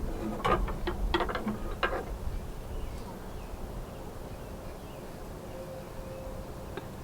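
A quick series of knocks and clicks from plant pots and tools being handled during repotting, bunched in the first two seconds, then only a steady low background.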